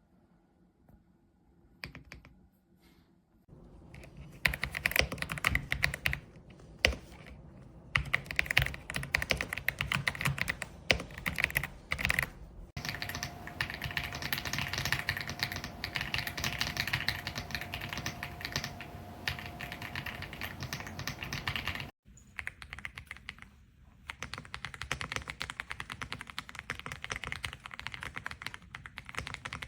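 Typing on an EPOMAKER x Aula F75 gasket-mounted mechanical keyboard with Ice Vein switches: a steady stream of keystrokes. It starts a few seconds in, is fastest and densest in the middle, and breaks off briefly about three-quarters of the way through before typing resumes.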